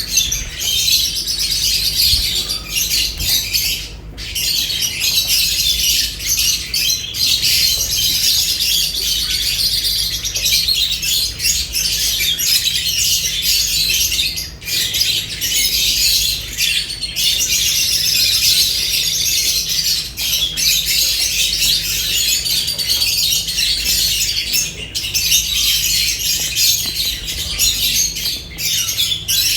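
Several lovebirds chattering and squawking without pause, their shrill chirps overlapping in a dense high-pitched din, with a low steady hum underneath.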